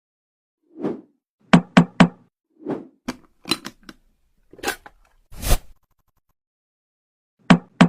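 A series of separate knocks and taps, some dull and some sharp, including three quick crisp knocks about a second and a half in and a longer scraping impact near the middle, with dead silence between them.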